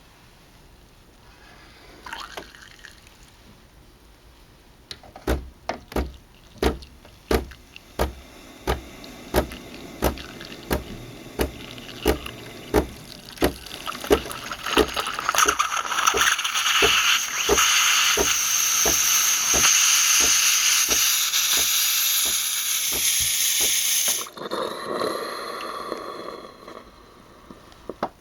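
DeLonghi ESAM3300 super-automatic espresso machine brewing. Its pump thumps in a steady pulse about one and a half times a second. From about halfway a hiss of liquid pouring builds up over the pulses, then cuts off suddenly near the end.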